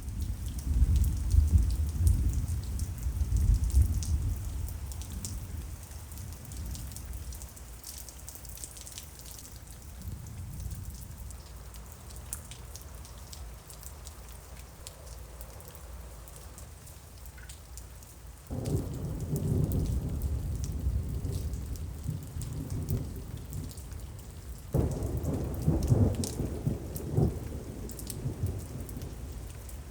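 Summer thunderstorm: steady rain with fine drips, and rolling thunder. One long rumble opens the stretch, a second crack and rumble breaks suddenly about two-thirds through, and a third follows near the end.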